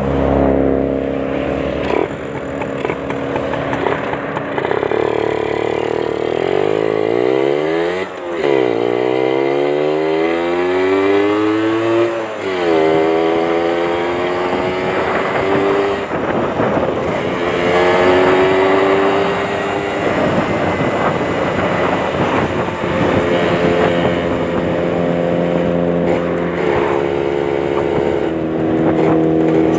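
Two-stroke Yamaha Champ motorcycle engine with a racing exhaust, being revved in place. The pitch climbs and falls several times, with a sharp drop about eight seconds in, a long climb back up, and then steadier spells at higher revs.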